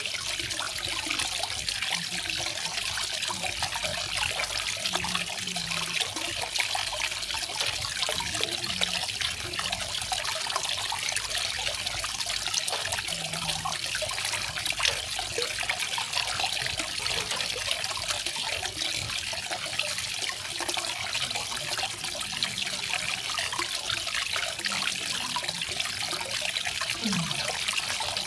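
Small garden waterfall, water splashing and trickling steadily.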